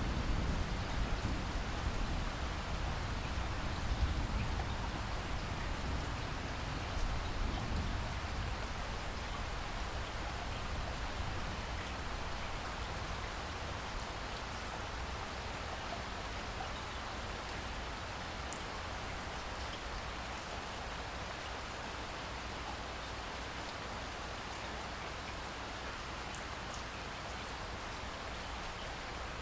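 Steady rain, an even hiss of drops falling on surfaces. A low thunder rumble dies away over the first several seconds.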